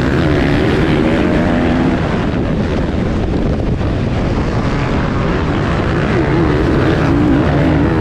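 A pack of motocross dirt bikes racing, many engines running hard together in a loud, continuous drone. Several engine pitches rise and fall as riders rev and shift.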